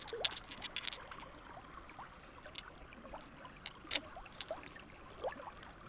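Shallow river water trickling and babbling, full of small plinks and short rising blips, with a few sharp clicks on top.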